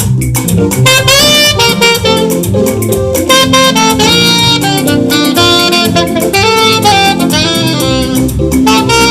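Saxophone playing a flowing melody over a live band with bass and drums.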